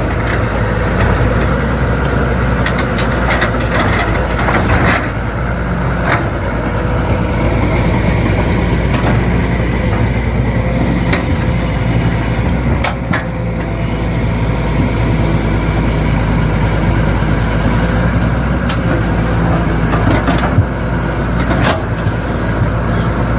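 A large vehicle's engine running steadily, with a few short knocks or clanks scattered through.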